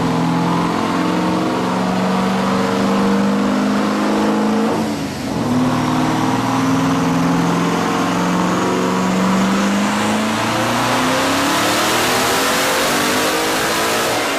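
High-performance car engine run hard on a chassis dyno. It holds a steady note, breaks off briefly about five seconds in as if shifting, then climbs in pitch over the last few seconds as it revs out.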